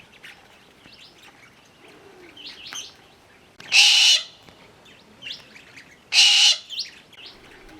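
Galahs giving two loud, harsh screeches about half a second long, roughly four and six seconds in, over faint scattered bird chirps.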